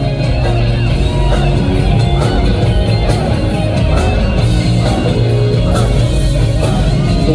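Live J-rock band playing loud through a concert sound system: electric guitar over bass and drums, a rock song in full swing.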